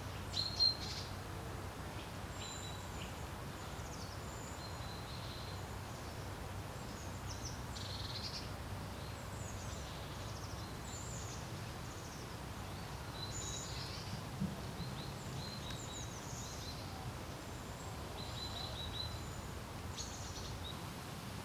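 Steady low wind rumble over a lake, with small songbirds chirping and trilling throughout; a louder pair of chirps comes about half a second in.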